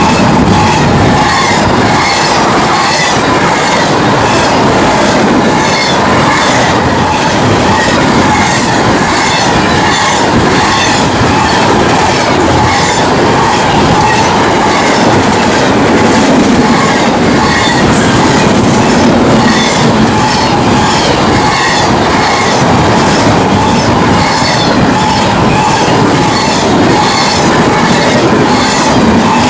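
Freight cars of a fast Union Pacific intermodal Z train rushing past at speed. The wheels click in a steady rhythm over the rail joints, over a constant high-pitched wheel squeal.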